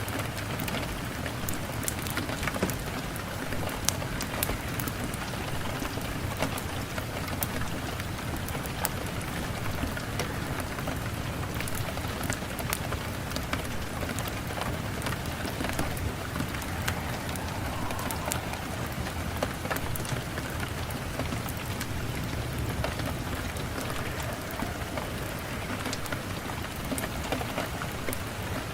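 Steady rain falling, a dense even hiss dotted throughout with many small, sharp ticks.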